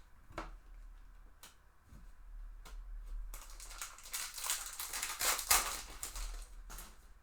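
A few light clicks of trading cards being handled, then about three seconds of crinkling and tearing from a foil trading-card pack wrapper being ripped open.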